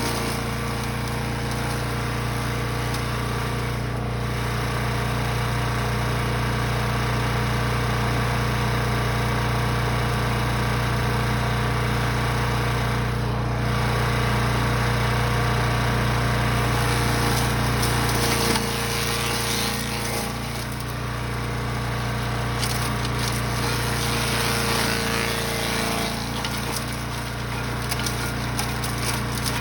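Brush Master 3-in-1 wood chipper/shredder's gas engine running steadily under load, with irregular crackling and rattling as material is fed through. The engine note drops and changes about two-thirds of the way in.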